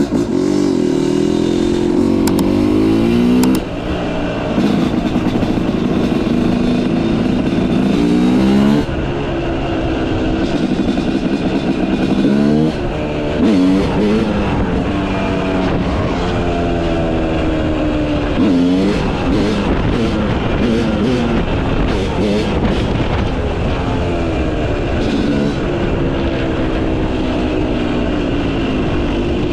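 Yamaha YZ250 two-stroke motocross engine with a Pro Circuit exhaust being ridden hard. Its pitch climbs and then drops sharply again and again as the throttle is opened and closed.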